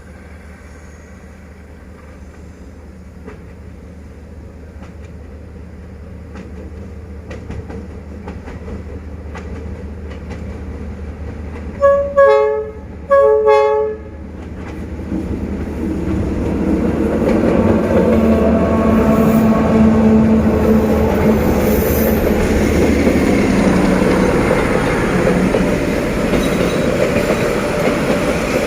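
D19E diesel-electric locomotive hauling a passenger train: its rumble grows steadily as it approaches, it sounds two short horn blasts about a second apart, then the locomotive and the wheels clattering on the rails fill the rest as the train passes close by.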